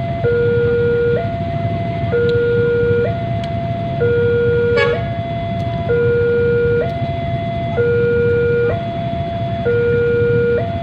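Two-tone hi-lo siren, alternating evenly between a low and a higher note about once a second, over a steady low rumble of traffic. A brief click sounds about halfway through.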